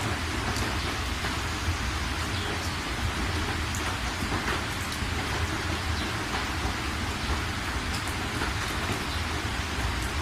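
Steady rain: a continuous even hiss with scattered faint drop ticks and a steady low rumble underneath.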